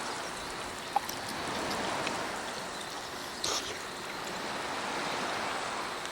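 Sea waves washing on the shore, a steady rush that swells and eases every few seconds. A single sharp tick sounds about a second in, and a short scratchy burst about three and a half seconds in.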